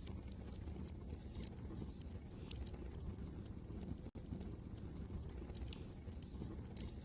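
Wood fire crackling with irregular sharp pops and snaps over a steady low rumble of wind. The sound drops out for an instant about four seconds in.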